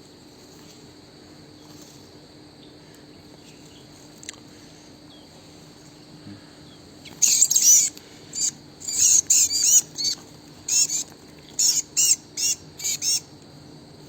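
A bird calling a string of loud, high, looping notes in quick clusters, starting about halfway through, over a steady high insect drone.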